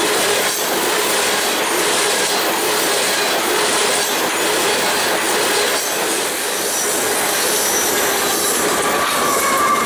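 Grain train's cars rolling past steadily, steel wheels on rail with wheel squeal; a higher squeal tone rises out of the noise near the end.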